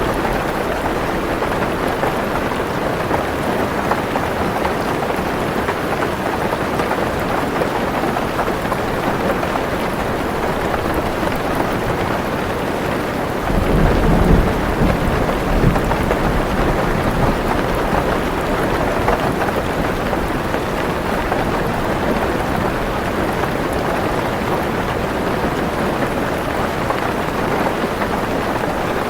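Heavy rain drumming steadily on a car roof, with a deep rumble of thunder rising about halfway through and fading over a few seconds.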